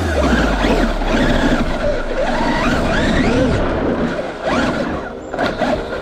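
Radio-controlled desert truck being driven: its electric motor whines up and down in pitch over a continuous rush of noise, with a short dip about five seconds in.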